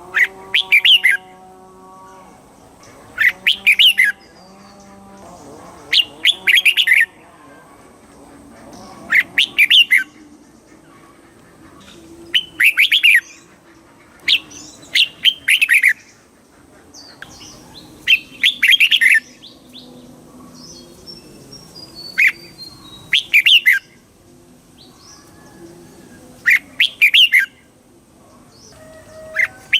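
Red-whiskered bulbul singing: about ten short, loud song phrases, one every three seconds or so, with quieter bird calls in the background between them.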